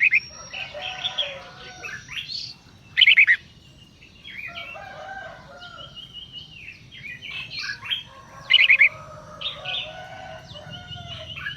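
Several birds chirping and calling, with one loud short call standing out three times: at the start, about three seconds in, and about eight and a half seconds in.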